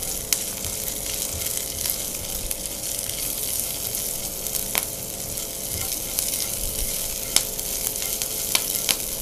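Chopped green chilli, garlic and cumin seeds sizzling in hot oil in a nonstick frying pan. They are stirred with a spatula that scrapes the pan and taps against it a few times.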